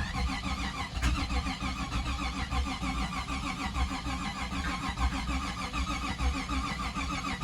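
Jeep Grand Wagoneer's V8 being cranked over by the starter in a cold start, with the throttle held wide open. It turns over steadily for about seven seconds without catching, then the cranking stops abruptly.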